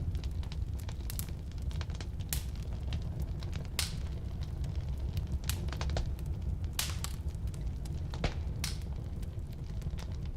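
Firewood burning in a fireplace: a steady low rumble of flame with irregular sharp crackles and pops from the burning wood, a handful of them louder.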